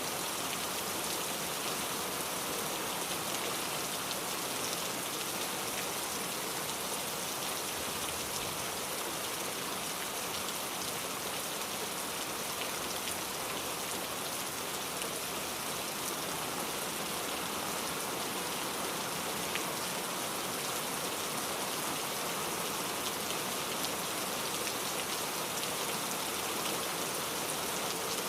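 Steady rain falling, an even hiss of many drops with faint individual ticks of drops striking a surface.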